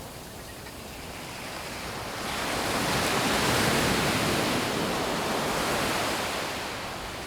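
Sea wave breaking on a beach and washing up the shore: a rush of surf that swells about two seconds in, peaks, and slowly dies away near the end.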